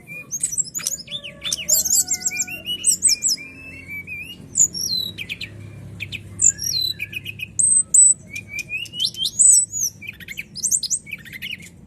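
A sikatan rimba dada coklat (brown-chested jungle flycatcher) singing a fast, varied song of clear chirps, short whistles and quick trills, with a faint steady low hum beneath.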